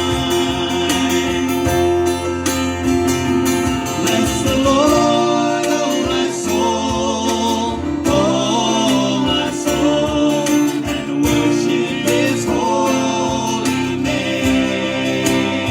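Worship song with singing over guitar-led accompaniment and a steady bass; the voice comes in about four seconds in.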